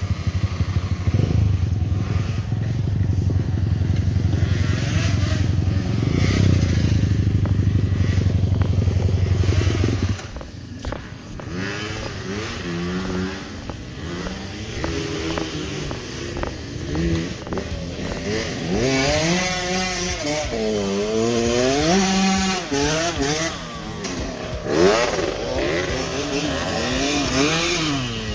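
Motorcycle engine running loudly on a climb. About ten seconds in it drops away, and motorcycle engine pitch is then heard rising and falling over and over as the throttle is worked up and down.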